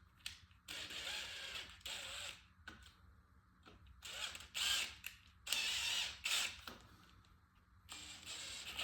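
Electric hand drill run in four short bursts, the bit cutting into the timing guide pin hole of a Ford 4.6 4V Teksid aluminium engine block through a drilling jig.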